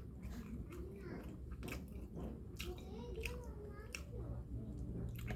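A person eating egg noodles and rice, chewing with wet mouth clicks and smacks at irregular intervals, over a steady low hum.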